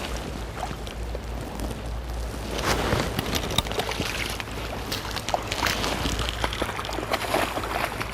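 Shallow river water splashing and sloshing in irregular bursts as a hooked rainbow trout thrashes while being landed, over the steady run of the river and a low wind rumble.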